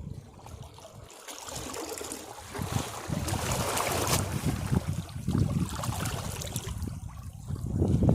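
Sea waves washing against rocks. One surge swells about two and a half seconds in and eases off, and another builds near the end, over a fluttering low rumble of wind on the microphone.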